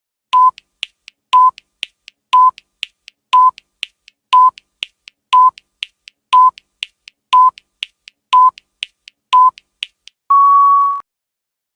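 Electronic quiz countdown timer: ten short beeps one second apart, with faint ticks between them, then one longer, slightly higher beep near the end as time runs out.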